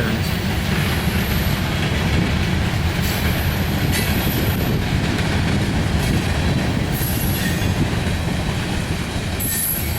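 Freight train cars rolling past close by: a steady rumble of steel wheels on the rails, with a few faint high wheel squeals now and then.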